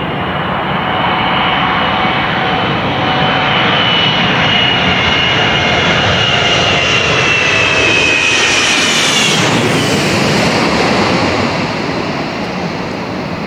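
Jet airliner passing low overhead: a loud rush of engine noise with a high whine that slowly falls in pitch as it passes, easing off near the end.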